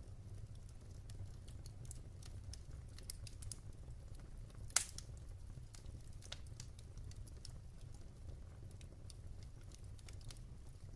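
Wood fire burning in a fireplace: scattered crackles and pops over a low steady rumble, with one sharp, louder pop a little under five seconds in.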